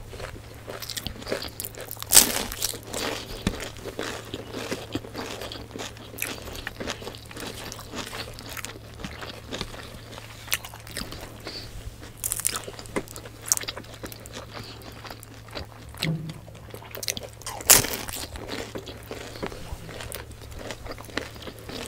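Close-up crunching and chewing of crispy fried vegetable spring rolls (lumpiang gulay), a steady run of small crisp bites and chews, with sharp loud crunches about two seconds in and again near eighteen seconds. A faint steady low hum runs underneath.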